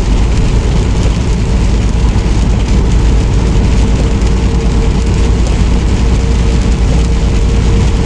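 Steady engine and road noise inside a semi truck's cab while driving in the rain, with a faint steady hum running through it.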